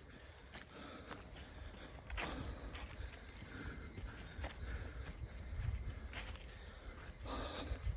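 A steady, high-pitched chorus of insects, with footsteps on a forest trail crunching now and then and low rumble from handling or wind.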